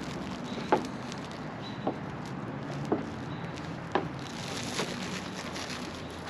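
Footsteps at a steady walking pace, about one step a second, five in all, over a steady background hiss.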